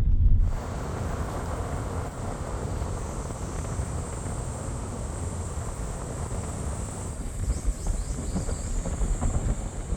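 Wind rumbling on the microphone, with a steady high-pitched hiss above it; a louder rumble drops away about half a second in.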